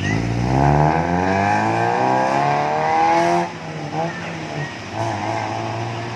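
Daihatsu Sirion's engine revved through an aftermarket racing exhaust: the pitch climbs for about three seconds, then falls back sharply and settles to a steady idle.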